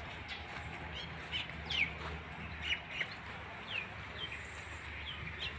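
Birds chirping: a scatter of short, quick chirps, each falling in pitch, over a faint low steady hum.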